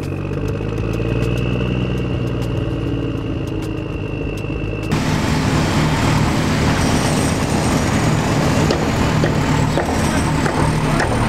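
A motor vehicle engine running steadily with a faint high whine. About five seconds in it cuts abruptly to a louder, rougher engine sound with a hiss over it.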